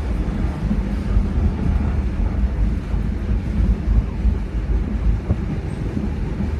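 Steady low rumble of a heritage railroad passenger car rolling along the track, with wind buffeting the microphone.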